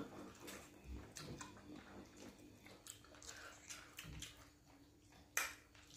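Faint chewing and mouth sounds of people eating pounded yam and fish pepper soup with their fingers, with scattered soft clicks and one louder click about five seconds in.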